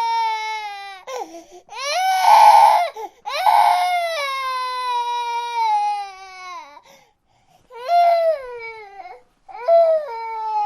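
Baby crying in long, high-pitched wails, each falling in pitch at its end, with short breaths between them; a harsher, strained cry about two seconds in and shorter cries near the end.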